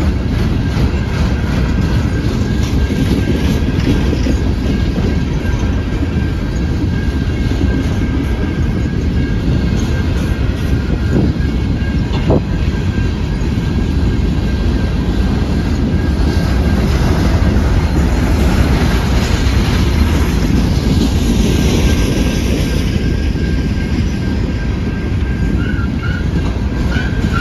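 Train rolling past on the rails, a loud, steady rumble of wheels and cars.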